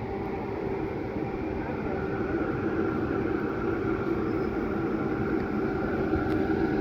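A train running on the line at a station platform, getting gradually louder, with a steady hum over the rumble of the wheels.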